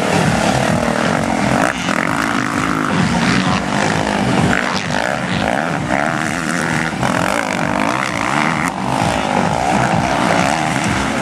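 Several motocross bike engines revving and buzzing together, their pitches rising and falling as the riders work the throttle.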